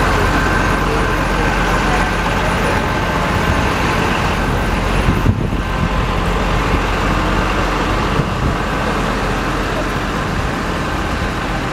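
Steady road traffic noise, with a brief drop about five seconds in.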